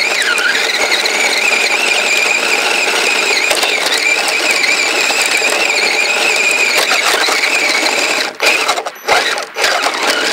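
Kyosho Blizzard RC snowcat's electric motor and chain drive whining steadily as it drives, the pitch wavering a little with throttle. About eight seconds in, the whine cuts out and comes back several times as the throttle is let off and reapplied.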